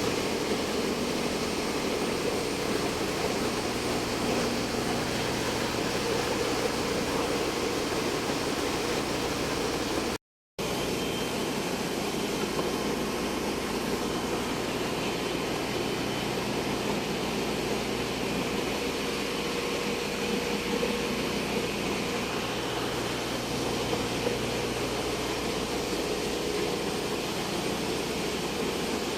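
Ship's main diesel engine running in the engine room: a loud, steady machinery drone with a constant low hum. The sound cuts out completely for a split second about ten seconds in.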